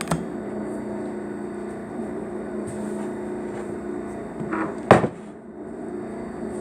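A steady mechanical hum, with a sharp click just after the start and a louder knock about five seconds in.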